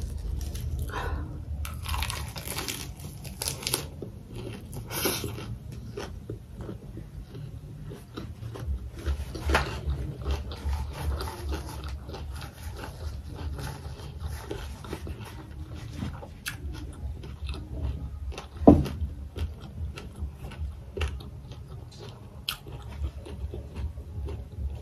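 Close-miked mouth sounds of biting into and chewing a lettuce wrap of rice and pork fry: wet crunching of lettuce and smacking, densest early on. One sharp click about three-quarters of the way through is the loudest sound.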